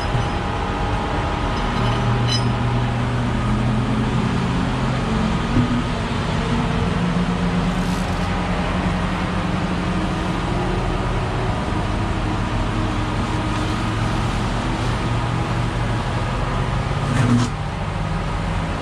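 Steady drone of car engines running, with low pitched hum lines that shift slightly in pitch, and a brief louder bump about 17 seconds in.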